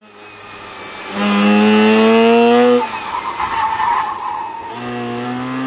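Mazda RX-8's rotary engine, heard from inside the cabin, revving hard and rising in pitch under acceleration, then dropping off about three seconds in. A rushing noise fills the gap before the engine climbs in pitch again near the end.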